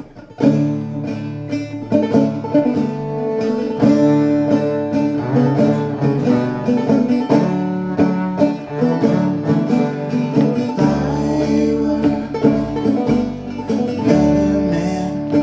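Acoustic instrumental intro played live: a plucked string instrument picks a steady run of notes. Low upright bass notes join about eleven seconds in.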